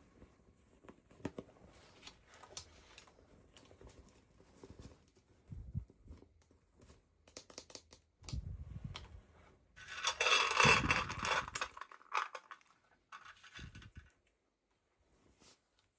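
Toy packaging being handled and opened: scattered small clicks and rustles, with a louder burst of plastic crinkling and tearing for about two seconds around ten seconds in.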